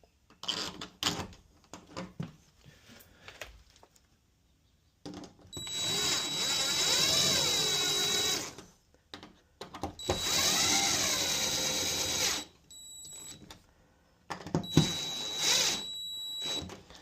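Cordless power drill running in three bursts of two to three seconds each, its motor pitch rising and falling with the trigger and a steady high whine over it, after a few light handling clicks.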